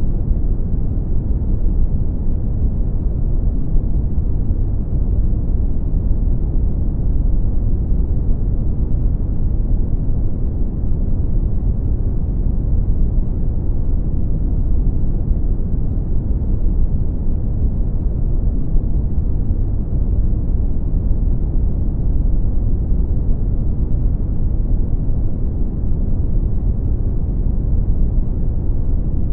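Brown noise: a steady, deep, rumbling hiss with its weight in the low end, unchanging throughout.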